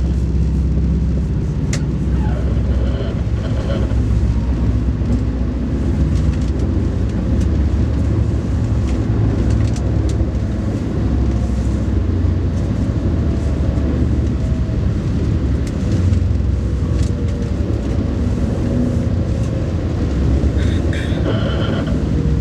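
Alfa Pendular tilting train running at speed: a steady low rumble, with a few faint clicks.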